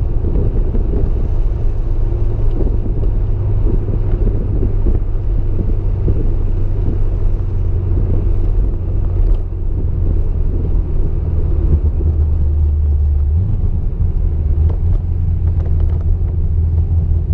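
Car engine heard from inside the car, running at low, steady revs with road rumble; its note steps to a different pitch about thirteen seconds in.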